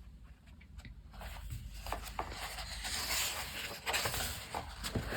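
Paper rustling with a few light taps as a colouring book is handled and its cover and pages are turned, the rustle growing from about two seconds in.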